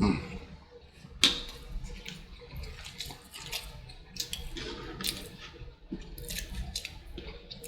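Close-miked eating sounds: wet, irregular mouth clicks and smacks of someone chewing food.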